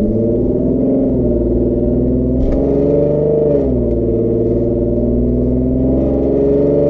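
Infiniti Q50's engine running through an ARK aftermarket exhaust, giving a deep, droning note under light revs. The pitch climbs over the first few seconds, falls back about four seconds in, and climbs again near the end.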